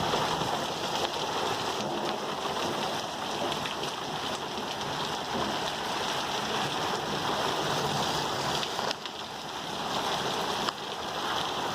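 Hard rain from a thunderstorm downpour, a steady heavy hiss of rain beating down and splashing on the ground.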